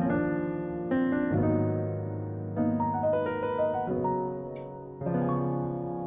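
Background piano music: a soft, slow piece with chords changing about every second and a short melody in the middle.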